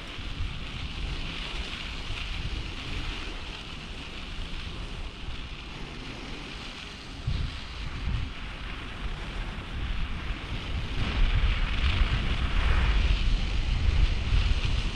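Wind buffeting the microphone during a bicycle ride: a gusty low rumble over a steady hiss, getting stronger about eleven seconds in.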